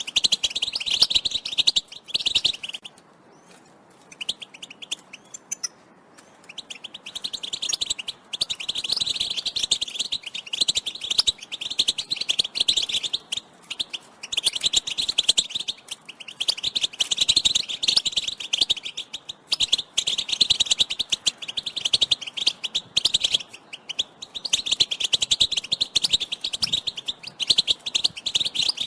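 European goldfinch twittering: fast, chattering bouts lasting several seconds each, with a pause of about three seconds near the start. These are goldfinch mating and readiness calls.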